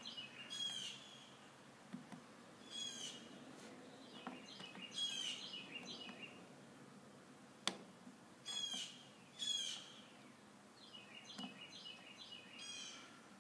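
Faint bird chirps and short songs, coming every second or two, with high notes that fall in pitch. A single sharp click sounds about eight seconds in.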